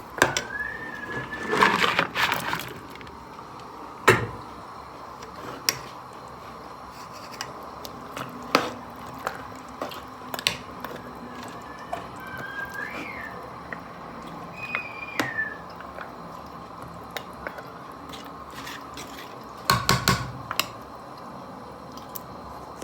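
Stew bubbling and spitting in a pot, a steady hiss with many small pops, with a utensil clattering against the pot about two seconds in and again near the end.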